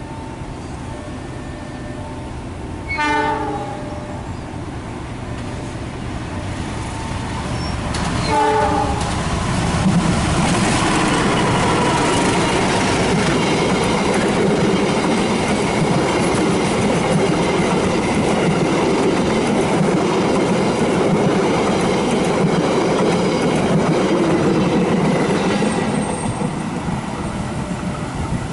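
Passenger train passing close by. The diesel locomotive's horn gives two short blasts, about three seconds in and again about eight seconds in. Then the train runs past with the wheels clattering over the rail joints for over a quarter of a minute, fading near the end.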